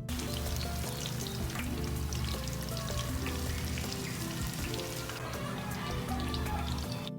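Oil sizzling and crackling steadily as turon, banana rolls in spring-roll wrappers, deep-fry, with background music.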